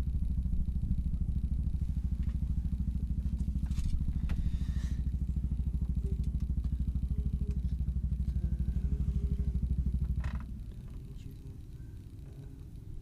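A small engine running steadily with an even low pulse, dropping away fairly suddenly about ten seconds in.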